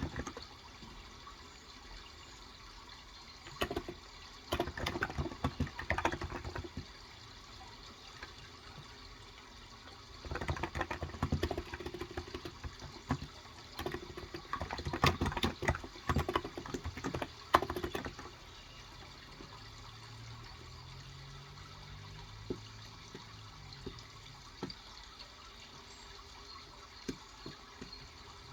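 Typing on a Cox Endeavor tenkeyless keyboard with 35g contactless (capacitive) switches: a short burst of keystrokes about four seconds in, then a longer stretch of typing from about ten to eighteen seconds. A steady running-water sound continues underneath.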